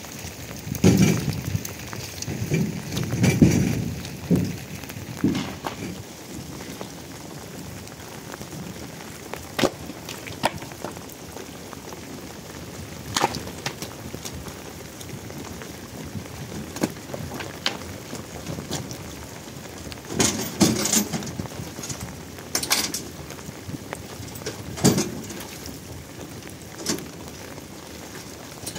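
Rain falling steadily, with scattered sharp taps of drops close by and a few louder bursts of noise, the strongest in the first few seconds.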